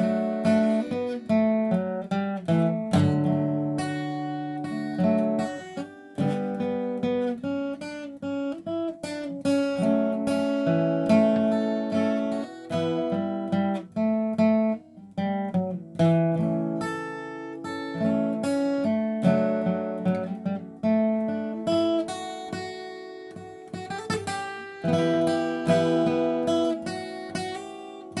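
Solo acoustic guitar playing a melody, single plucked notes ringing over lower bass notes and occasional chords.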